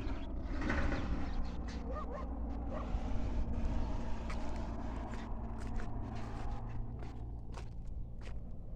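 Outdoor ambience with a steady low rumble, a few short animal calls about two seconds in, and scattered clicks.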